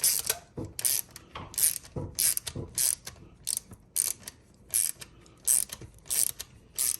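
Ratchet wrench clicking in short bursts, about one every two-thirds of a second, as the mounting bolts of a Tektro Dorado four-piston hydraulic brake caliper are run in on the front of an e-bike.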